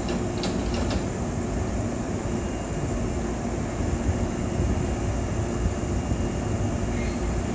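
Hankyu 7000 series train standing at the platform, its onboard equipment giving a steady hum over a low rumble, with a few faint clicks about half a second in.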